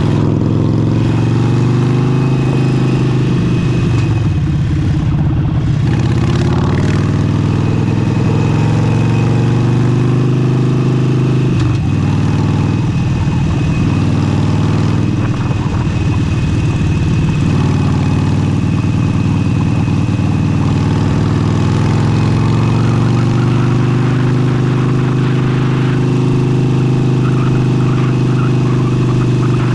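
Harley-Davidson Forty-Eight's air-cooled V-twin running through an aftermarket exhaust while riding, its note rising and falling with the throttle and dropping briefly about twelve seconds in. Wind noise on the microphone is mixed in.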